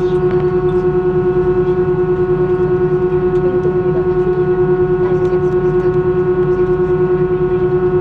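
Airbus A320 engines heard from inside the passenger cabin: a steady, unchanging whine over a low hum, with a fast, even throb in loudness.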